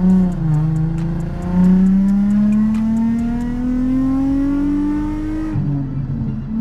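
Infiniti G35's 3.5-litre V6 engine and exhaust heard from inside the cabin as the car accelerates: a loud drone that climbs steadily in pitch, with a dip about half a second in and another near the end. The cabin noise is loud because the trunk has no interior trim, which the owner expects to quiet it.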